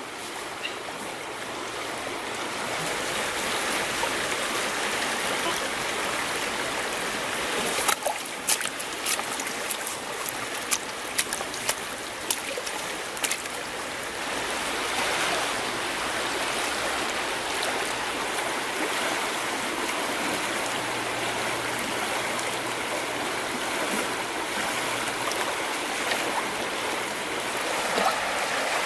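River water running steadily, with a cluster of sharp short clicks about a third of the way in.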